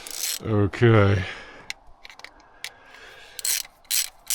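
Ratchet wrench being worked in short strokes, about two or three a second, starting a little past three seconds in, with a few faint clicks of handling before it.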